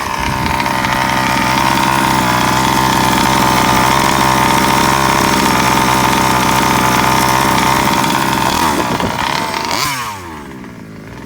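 A Rovan FT360R RC truck's 36cc two-stroke engine, the TMR performance ported engine, running loud and steady at high revs. About nine seconds in the pitch falls away and the sound drops off as the engine comes off throttle.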